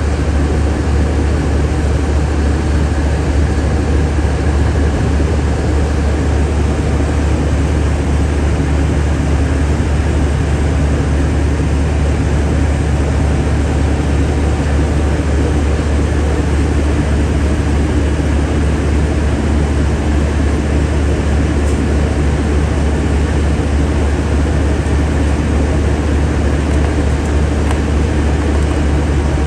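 Semi truck's diesel engine running steadily, a deep constant drone with no change in pitch.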